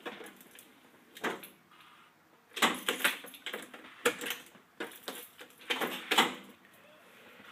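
Irregular clicks, knocks and short rattles, like keys and cab controls being handled, with no engine cranking: the bus's Allison automatic transmission was left in gear, so the starter does not engage.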